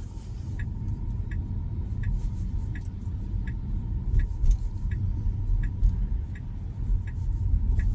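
2026 Tesla Model Y's turn-signal indicator ticking steadily, about one and a half ticks a second, over the low rumble of tyres and road heard inside the cabin.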